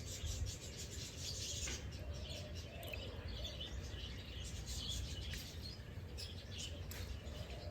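Several birds chirping and calling, with a fast rattling trill in the first two seconds, over a steady low rumble.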